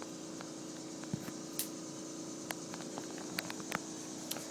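Phone handled while climbing a tree: scattered small clicks and taps over a steady faint background hum.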